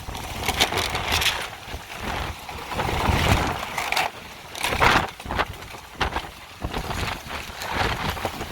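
Hurricane-force wind gusting across the microphone, rumbling and rushing in surges that rise and fall every second or so.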